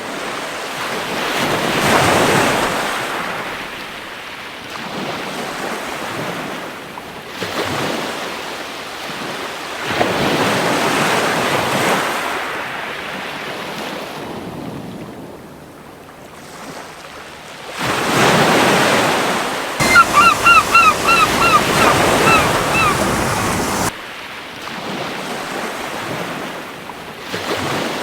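Waves breaking and washing on a beach, rising and falling in swells every few seconds. A little past halfway a seagull gives a quick run of short calls, the loudest sound in the stretch.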